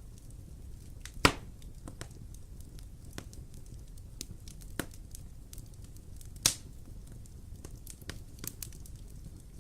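Fire in a fireplace crackling: a steady low rumble with frequent small snaps and two loud pops, one about a second in and one past six seconds.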